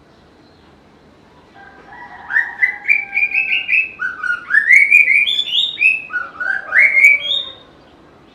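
White-rumped shama singing: a run of quick, rising whistled notes in varied phrases, starting about a second and a half in and lasting about six seconds.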